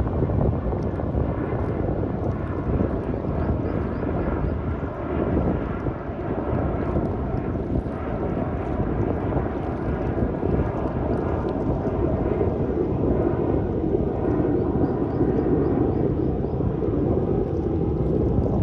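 Steady surf and wind noise at the shore, with an aircraft flying over and its engine hum building toward the end.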